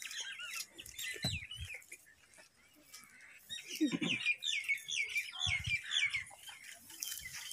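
Small birds chirping: quick runs of short chirps, busiest from about three and a half to six seconds in. A brief low sound, like a voice, comes about four seconds in.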